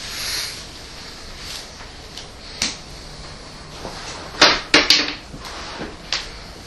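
Several sharp knocks and clacks over a low steady background: a single knock, then a quick cluster of three, then another knock near the end.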